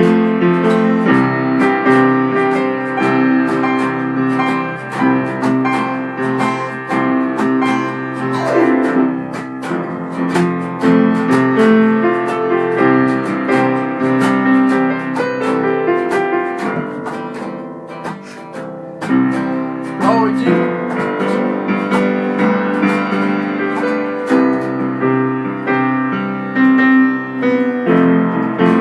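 Keyboard and guitar jamming together, improvising over chords kept in one key, with notes struck continuously throughout.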